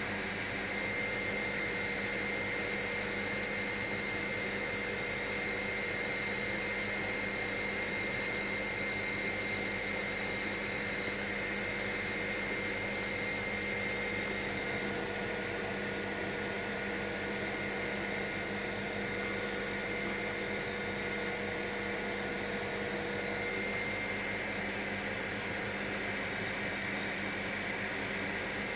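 Helicopter engine and rotor noise heard inside the cabin in steady cruise flight: an even drone with a few constant tones.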